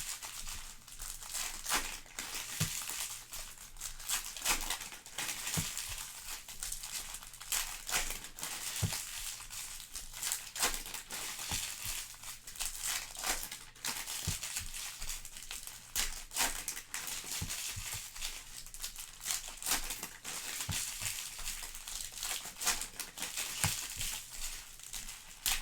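Foil trading-card pack wrappers crinkling and tearing as the packs are opened and handled, a steady run of rustles with many small sharp crackles.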